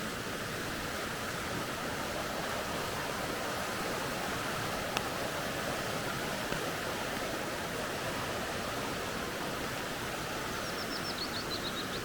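Steady rushing of a flowing creek. Near the end a bird gives a quick run of high notes stepping downward.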